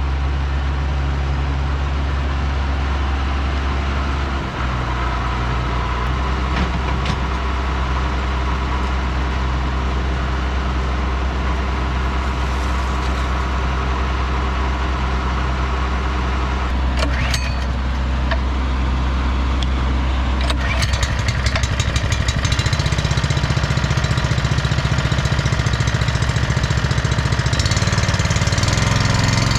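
Ford TW-20 tractor's six-cylinder diesel engine running steadily, growing louder and rougher from about twenty seconds in.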